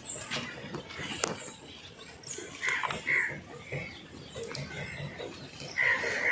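Several short animal calls, with a sharp click about a second in.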